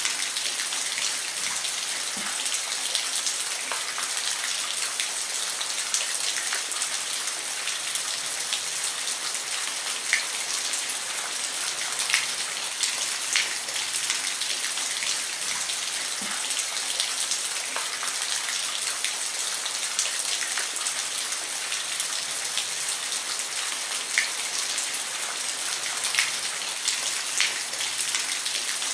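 Steady rain falling on a roof: an even hiss with scattered louder drops tapping at irregular moments.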